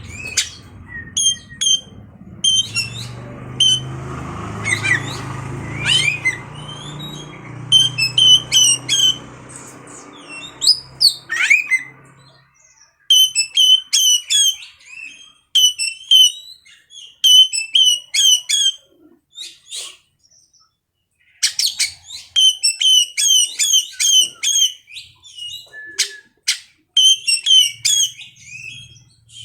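Oriental magpie-robin (kacer) singing: short, sharp whistled phrases and chirps repeated over and over, with a pause of about a second past the middle. A low hum runs under the first part.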